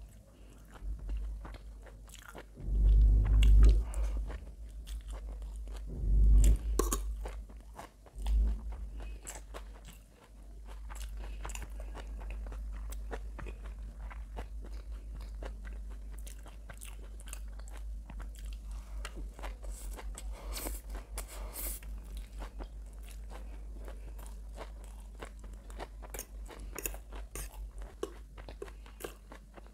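Close-miked chewing and biting of chow mein noodles, with a few heavy low thuds in the first several seconds and then a steady, rippling chewing rhythm with scattered small clicks.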